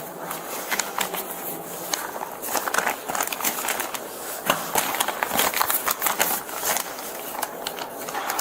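Irregular rustling and clicking handling noise, like clothing and small objects rubbing and knocking close to a body-worn camera's microphone.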